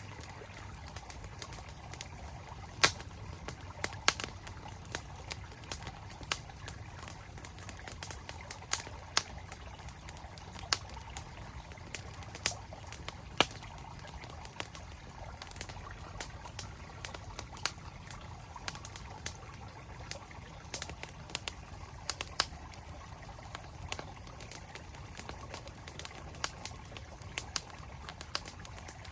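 Campfire crackling with irregular sharp pops, the loudest about three, four and thirteen seconds in, over the steady rush of a flowing stream.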